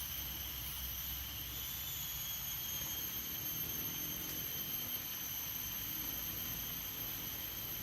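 Insects, likely cicadas, droning in a steady high-pitched whine, with a soft even hiss of rain beneath it.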